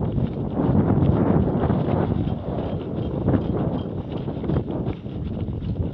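Wind buffeting an action camera's microphone while running, with quick footfalls on a dirt trail.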